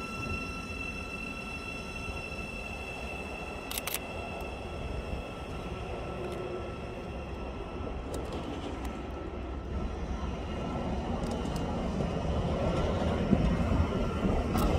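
A train on the line, with a steady high whine over the first few seconds that fades, then a rumble that grows louder through the second half as it nears. Two brief clicks sound near the start and about four seconds in.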